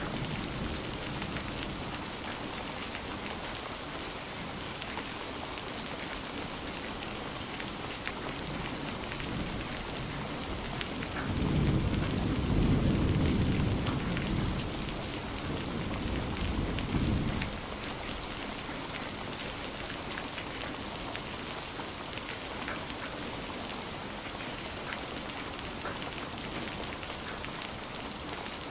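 Steady rain pattering, with a roll of thunder rumbling low about eleven seconds in and lasting some six seconds before it dies away.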